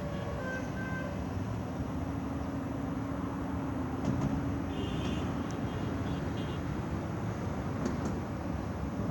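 Road vehicle engine running, a steady low hum under continuous traffic-like noise, with a few brief high-pitched tones about five seconds in.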